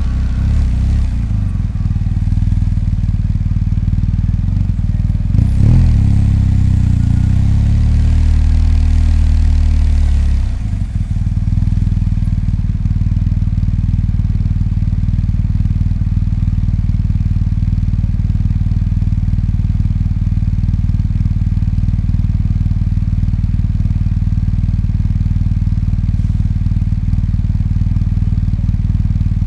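BMW R 1250 GS motorcycle's boxer twin engine running. It gives a sharp blip of the throttle about five seconds in and runs louder for a few seconds, then drops back to a steady, lower, even running for the rest of the time.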